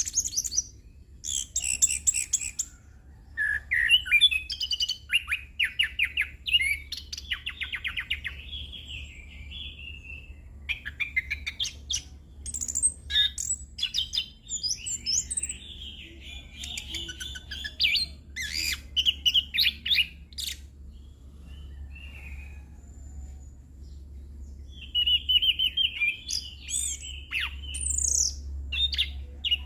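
Chestnut-capped thrush (anis kembang) singing a long, varied song of quick chirps, rattling trills and whistled sweeps, with mimicked phrases of other birds woven in. A steady low hum runs underneath.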